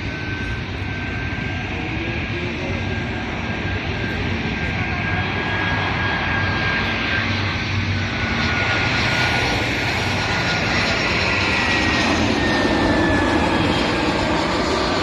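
Airliner's engines, a steady rush with a thin high whine that slowly falls in pitch, growing a little louder in the later part as the aircraft passes.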